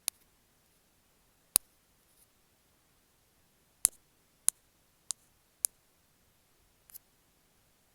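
Bamboo ear pick clicking against an earphone microphone: seven short, sharp clicks at uneven intervals, with quiet between them.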